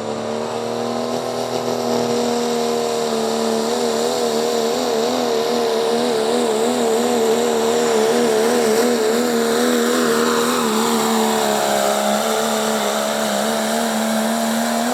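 Pulling vehicle's engine held at high revs under heavy load on a pull down the track, its pitch wavering up and down through the middle of the run. Near the end the revs fall away as the run ends.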